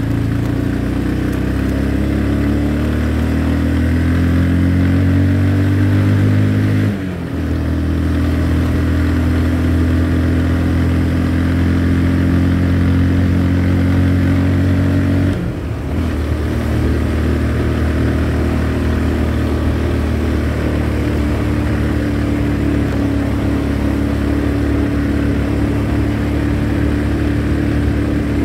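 Motorcycle engine running while riding, its note climbing slowly, then breaking off and dropping briefly twice: about 7 seconds in and about halfway through.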